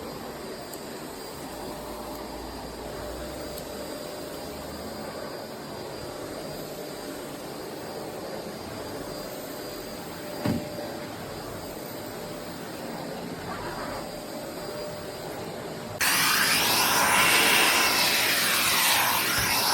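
Miele Classic C1 canister vacuum cleaner running with a steady hum, with a single knock about ten seconds in. Near the end it suddenly gets much louder, with a rushing hiss of air.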